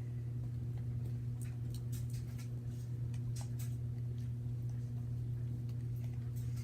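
Fork clicking and scraping irregularly against a bowl while stirring slime, over a steady low hum.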